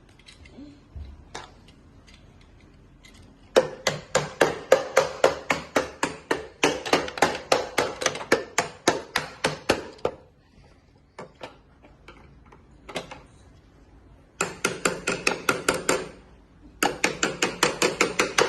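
Rapid runs of sharp, ringing strikes, about six a second, like fast hammering. There are two long runs of about three seconds each, then two shorter runs near the end.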